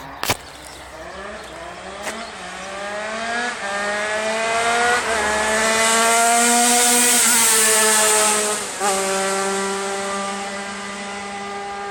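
Tuned two-stroke HM motorcycle engine with a TPR 76 kit, Mikuni TM24 carburettor, reed-valve intake and Yasuni R3 expansion exhaust, ridden hard past the listener. It is a high-pitched wail that climbs through several upshifts as it approaches, is loudest as it goes by, drops in pitch sharply as it passes, then fades into the distance. A sharp knock comes just after the start.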